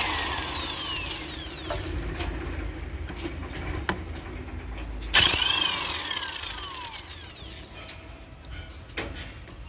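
Two sharp metal strikes about five seconds apart, hammer blows on a hand impact driver loosening a tight screw on the engine's plate, each followed by a long metallic ringing that falls in pitch as it fades, with a few light clicks between.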